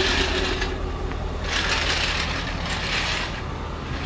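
Straight-piped car engine idling with a steady low hum, its exhaust newly fitted with J-pipes to cut the drone. Over it come three or four short rasping, clicking bursts, each about a second long.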